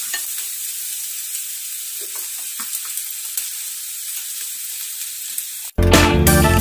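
Chopped vegetables and sliced garlic sizzling in hot oil in a wok, a steady frying hiss with a few faint knocks. Near the end it cuts off abruptly and loud guitar music comes in.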